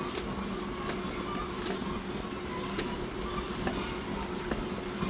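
Machinery running with a steady hum, with irregular clicks and rattles over it.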